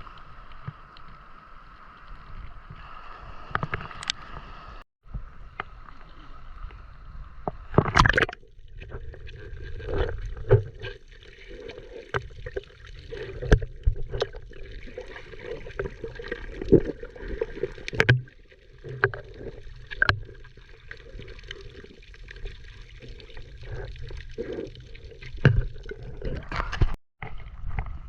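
Water splashing and sloshing, with irregular knocks and bumps scattered through it, a few of them much louder than the rest.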